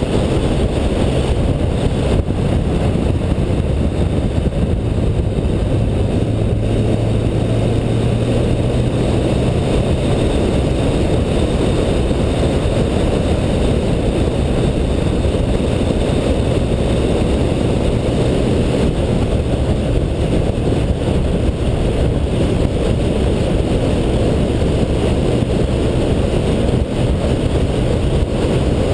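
Car engine running under load while driven at speed, heard over steady road and wind noise. A low, steady engine tone strengthens for a few seconds about a quarter of the way in.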